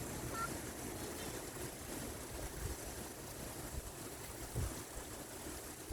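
Wind rumbling and buffeting on the microphone over a steady hiss, with a short high chirp about half a second in.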